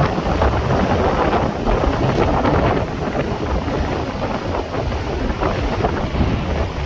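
Mountain valley stream rushing steadily, with many small splashes.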